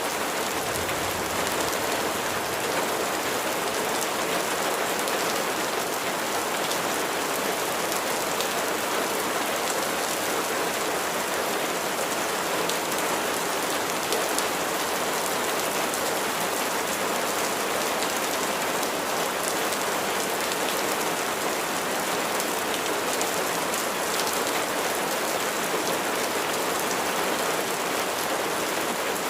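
Steady rain: a dense, even patter of raindrops falling without letup.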